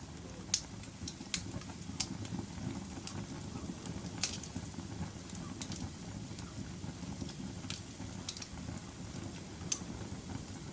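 Fireplace fire burning: a steady low rumble of flames with sharp, irregular crackles and pops, the loudest pop about four seconds in.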